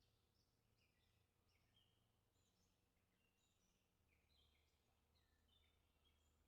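Near silence, with faint birds chirping throughout in many short notes and a faint low hum underneath.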